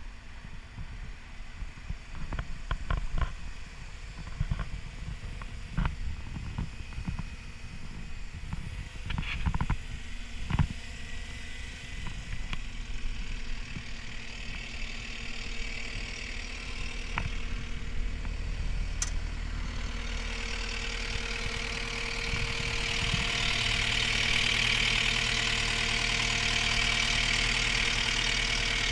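CAT 242D skid steer's diesel engine running steadily, with scattered knocks and clicks over the first half. From about halfway it grows gradually louder, with a rising hiss over the engine note.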